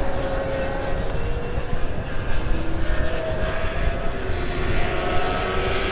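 Superbike racing motorcycle engines running at high revs on track, several pitched engine notes shifting up and down.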